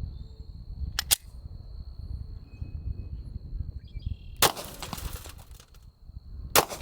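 Two 10mm pistol shots, about two seconds apart, the first about four and a half seconds in and the second near the end, each trailing a short echo. A pair of sharp clicks comes about a second in.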